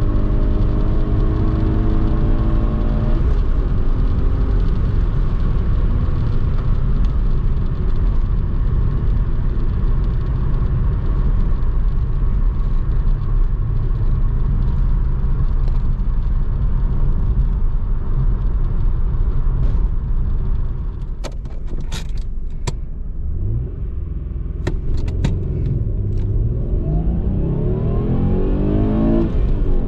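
Ford Probe's 2.5-litre V6 under hard acceleration, its pitch climbing for the first few seconds, then a steady loud rumble of engine and road noise at speed. About twenty seconds in the sound drops somewhat and a few sharp clicks come through, then the engine note dips and rises again near the end as it is revved up once more.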